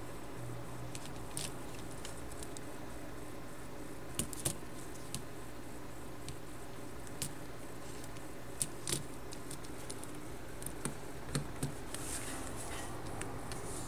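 Light, irregular clicks and taps of LEGO plastic parts as a hand-pushed LEGO guided-rail train model is moved along its track, over a steady low hum.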